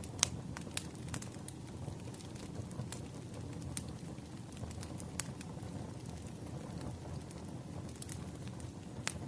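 Wood fire crackling: a steady low rush of burning logs with scattered sharp pops, the loudest just after the start.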